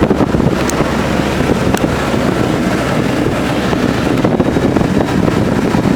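Motorboat running steadily at speed, with wind rushing over the microphone.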